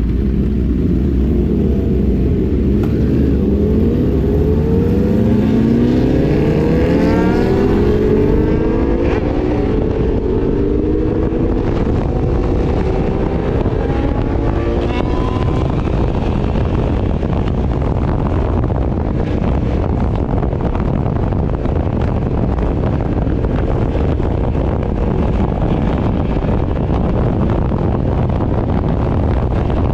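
A 1000 cc motorcycle accelerating hard, its engine note climbing repeatedly through the first ten seconds, then holding at cruising speed. Heavy wind noise hits the microphone throughout.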